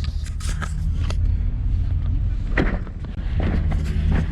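Steady low road-and-engine rumble inside a moving Jeep's cabin, with a handful of short sharp clicks and knocks scattered through it.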